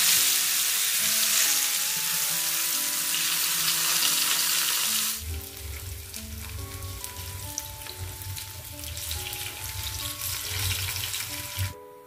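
Tempeh strips frying in hot oil in a frying pan: a steady sizzle that drops much quieter about five seconds in, with a low hum beneath it from then on. Background music plays throughout.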